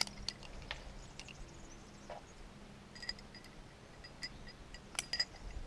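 Faint scattered clicks and light metallic clinks of climbing gear, carabiners and quickdraws on a harness jingling as the climber moves, with a few clearer clinks in the second half.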